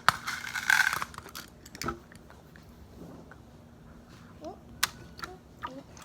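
A utensil scraping and cutting through pretend food on a dish, with a short scrape in the first second, then scattered light clicks and taps.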